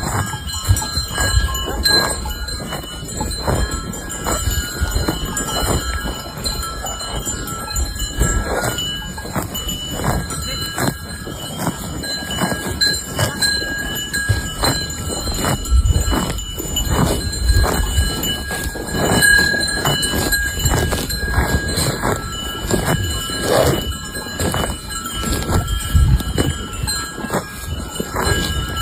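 Bells on cows clanking and ringing irregularly as the animals move, with several clear bell tones that hang on between strikes.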